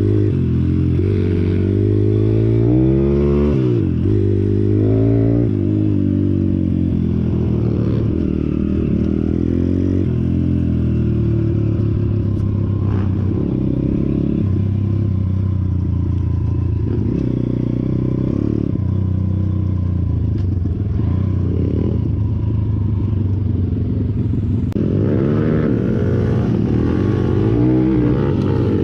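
Pit bike engine running while being ridden, the revs climbing and dropping again and again as it accelerates and changes gear.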